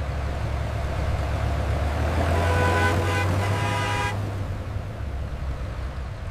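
Heavy tractor engine rumbling steadily, with a horn blaring for about two seconds near the middle.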